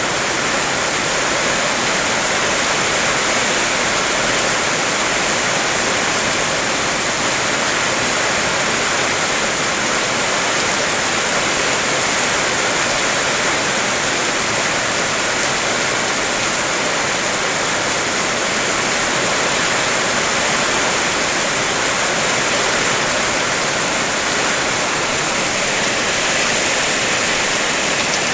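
Heavy rain falling steadily: a continuous, even hiss with no separate drops standing out.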